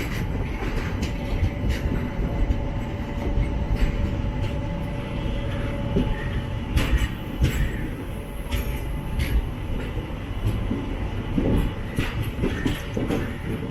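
Express passenger train running at speed, heard from aboard: a steady rumble of wheels on track with scattered sharp clicks as the wheels cross rail joints. It is overtaking a goods train on the adjacent line.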